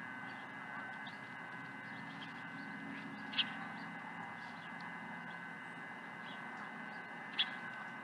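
Birds calling over a steady outdoor hiss: two short, sharp high calls about four seconds apart stand out, with fainter calls in between.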